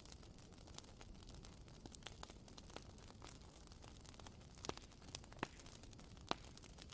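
Wooden-wick candle crackling: faint, irregular small pops and snaps, with a few sharper pops in the second half.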